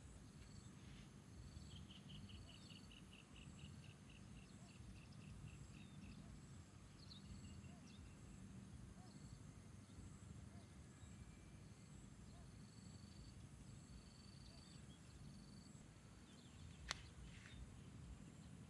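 Faint outdoor nature ambience: a bird trill of quick, evenly repeated notes starting about a second and a half in, other scattered faint chirps, and a steady high insect hum. A single sharp click comes near the end.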